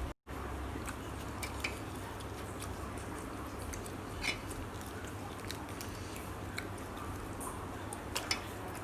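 A person eating, chewing with scattered small mouth and utensil clicks, over a steady low background hum. The sound drops out for a moment right at the start.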